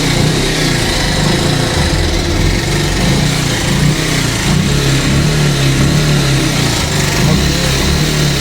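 Bajaj Pulsar 150's air-cooled single-cylinder engine running steadily, with a strange mechanical noise over the engine note. The noise comes from a broken cam chain tensioner letting the timing chain run slack, and from play in the camshaft bearing.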